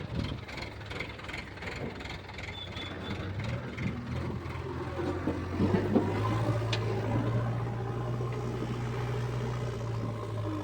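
Excavator diesel engine running, its low hum growing stronger about halfway through and then holding steady as it works under load, with a few knocks and clatter around the middle.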